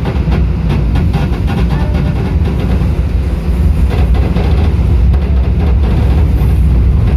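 Passenger train running along the track, heard from aboard: a loud, steady low rumble with scattered faint clicks from the wheels on the rails.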